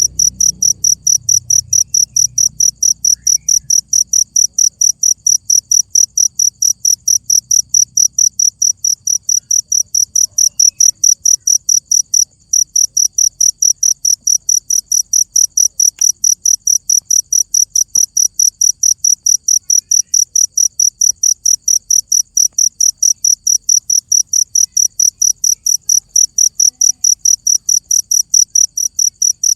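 Cricket chirping: a loud, high-pitched chirp repeated rapidly at a very even pace, broken off once for a moment about twelve seconds in.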